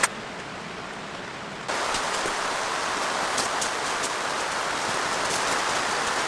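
Heavy rain falling as a steady hiss, with scattered sharp drop ticks. It starts with a click and is duller and quieter for about the first second and a half, then comes back fuller and brighter.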